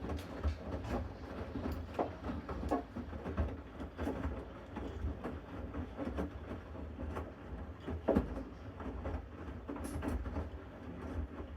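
Bosch Series 6 front-loading washing machine in its main wash: the drum turns with a steady low motor hum while wet laundry and water tumble in irregular soft thumps and swishes.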